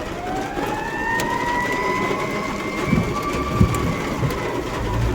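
Steady rain, with a passing vehicle's motor whine that rises in pitch over the first second or so and then holds, sagging slightly toward the end. There are a couple of low thumps about three seconds in.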